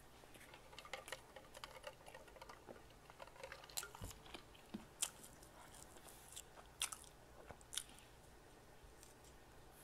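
Faint close-up mouth sounds of a person biting and chewing a soft bread bun: scattered wet smacks and clicks, with a few sharper ones in the middle of the stretch.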